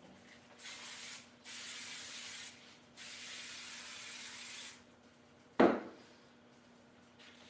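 Aerosol can spraying in three bursts, the last and longest about two seconds, followed about five and a half seconds in by a single sharp knock.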